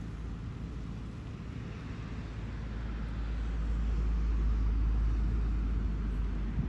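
A low rumble with a hiss above it, swelling gradually from about two seconds in and dropping away near the end.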